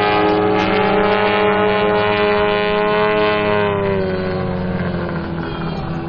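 Engines of two Extra 330SC aerobatic model planes flying in close formation, a steady loud drone of stacked tones. A little over halfway through, the pitch slides down and the sound fades as the planes pass by and move away.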